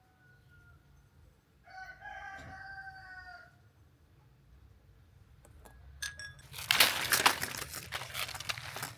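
A rooster crows once, a drawn-out call about two seconds in, after a fainter call at the start. From about six seconds in, loud close crunching and rustling noise takes over.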